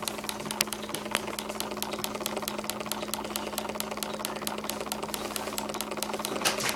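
Small homemade battery-powered engine running on a 9-volt battery, making a rapid, even ticking over a steady hum. There is one sharper click about half a second in and a short rustle near the end.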